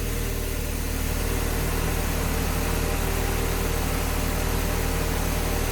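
LS V8 in a swapped 2003 Mazda Miata idling steadily at operating temperature, the thermostat open and coolant circulating.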